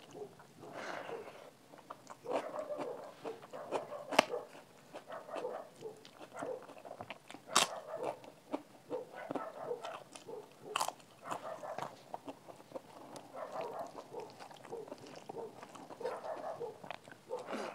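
Close-miked eating: wet chewing and mouth sounds of rice with crisp papad, broken by sharp crunches about four, seven and a half and eleven seconds in.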